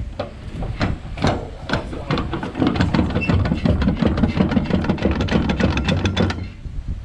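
A rapid run of clattering knocks and rattles over a low rumble, stopping suddenly about six seconds in.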